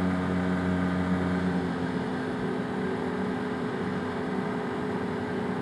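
Arctic Cat Wildcat Trail UTV's twin-cylinder engine running steadily at cruising speed, heard from on board while riding. The engine note shifts slightly about two seconds in.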